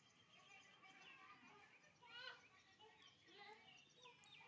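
Faint chirping of small birds, many short calls overlapping, with one slightly louder call about two seconds in.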